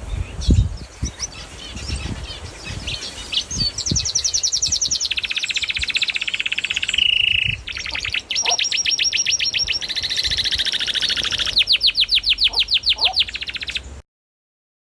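Birds chirping in fast, rapid trills of many notes a second, after a few low thumps in the first seconds. The sound cuts off suddenly near the end.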